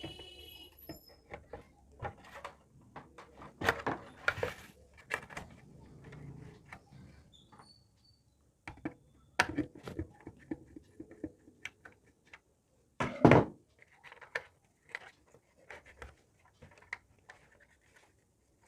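Irregular clicks, knocks and rattles of hard parts being handled and fitted into an electric geyser's casing, with one loud knock about two thirds of the way through.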